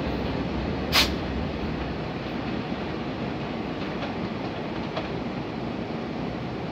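Long Island Rail Road diesel-hauled train of C3 bilevel coaches pulling away, its rumble and wheel noise slowly fading as it recedes. One sharp crack about a second in, and a couple of faint clicks later.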